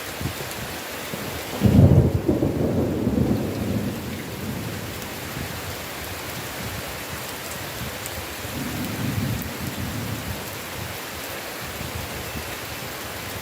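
Heavy rain falling steadily with thunder. A sudden loud clap of thunder rumbles in about two seconds in and fades over a couple of seconds, and a softer roll of thunder follows past the middle.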